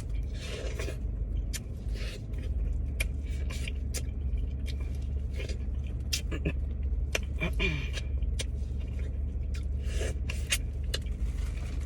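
Crab legs being cracked and eaten, with frequent short cracks, crunches and mouth sounds, over the steady low hum of a car's idling engine.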